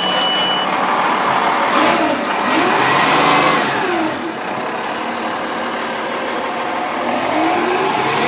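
Diesel engine of a new Pierce Impel fire engine running just after start-up, its pitch rising and falling in gentle revs around two to four seconds in and again near the end.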